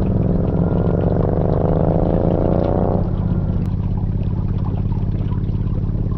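Royal Enfield Interceptor 650's parallel-twin engine through a Zard exhaust, accelerating with a steadily rising pitch. About three seconds in the revs drop suddenly and it runs on steadily at a lower pitch.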